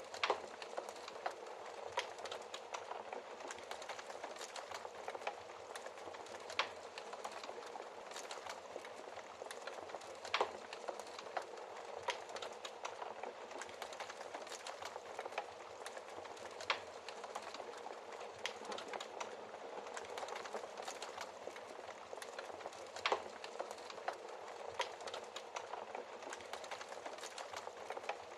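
Wood fire crackling in a fireplace: a steady hiss of burning with irregular sharp pops, several a second, and a handful of louder cracks scattered through.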